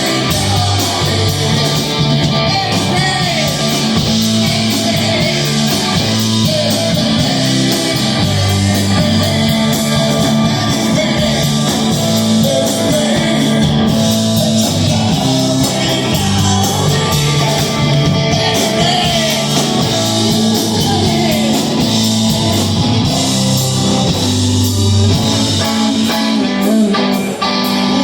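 Rock band playing a song, with electric guitar, a bass line that steps between held notes, and a steady drumbeat.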